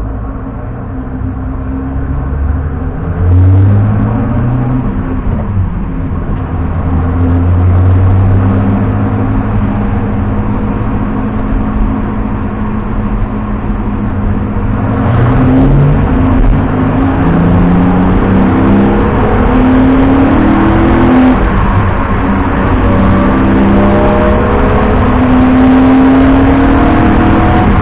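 BMW 330i E90's straight-six engine heard from on board, running gently at first and then, from about halfway, accelerating through the gears: its pitch climbs and drops back at each shift, with road noise growing as the car gathers speed.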